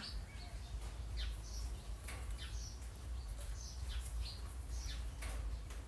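Small birds chirping now and then in short, high notes, over a low steady rumble.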